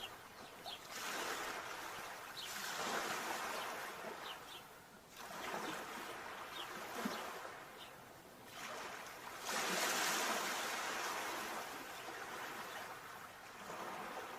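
Sea waves breaking and washing up, the surf swelling and falling away every few seconds, with the biggest surge about ten seconds in.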